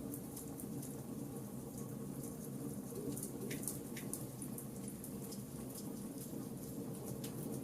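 Burning charcoal crackling and popping in frequent small sharp clicks, two louder pops about three and a half and four seconds in, over a steady low background noise.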